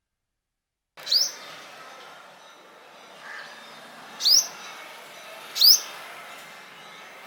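A small bird calling: three short, sharp chirps, each sweeping quickly upward in pitch, a second or more apart, starting about a second in over a faint steady background hiss.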